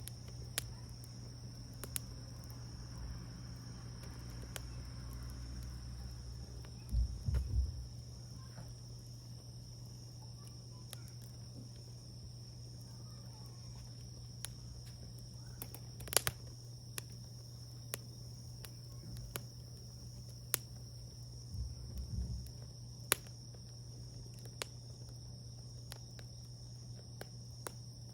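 Wood campfire burning, with scattered sharp crackles and pops, over a steady high-pitched hum. Two dull low thuds, about seven seconds in and again past twenty seconds.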